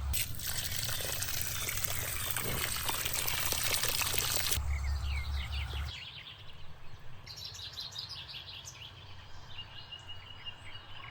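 Water spraying with a loud rushing hiss that cuts off suddenly after about four and a half seconds, followed by songbirds chirping.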